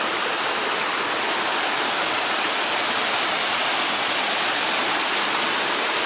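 Waterfall crashing close by: a steady, unbroken rush of falling water.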